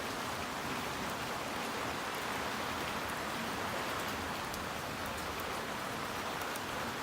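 Heavy cloudburst rain falling steadily, heard from under a tarp: an even hiss with scattered sharp drop ticks.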